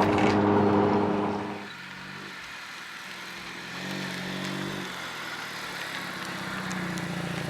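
A car engine running steadily, loud at first, then cutting away sharply under two seconds in to fainter engine sound that swells briefly twice.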